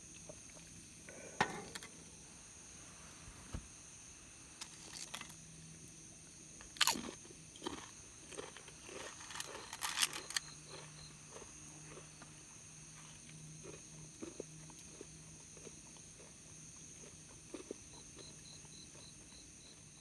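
Sparse light clicks, knocks and crunches, busiest in the middle, over a steady high-pitched drone and a faint low hum; near the end comes a short run of evenly spaced faint high ticks.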